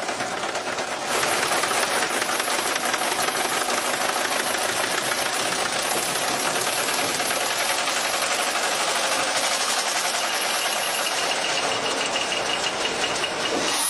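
A giant engine starting up and running with a fast, even mechanical clatter that gets louder about a second in.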